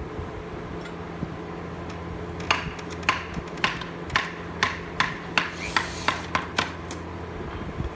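Hammer blows on wood during cabinet installation: about a dozen regular strikes, roughly two a second, starting a couple of seconds in and stopping near the end.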